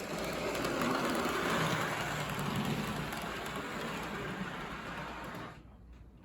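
HO scale model locomotive running along the track, a steady motor and wheel rumble that cuts off suddenly near the end. The owner thinks the locomotive is a Mantua with an MU1 motor.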